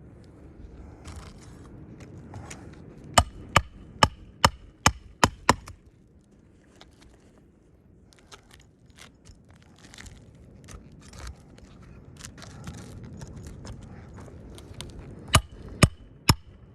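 Repeated sharp strikes of a roofing snake driving a 1¼-inch roofing nail through a shingle into the roof decking: a run of about seven blows a little over two a second, then, after light handling noise, three more blows near the end.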